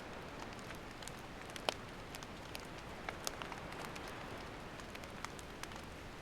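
Wood campfire burning: a steady hiss with irregular sharp crackles and pops, the loudest about a second and a half in.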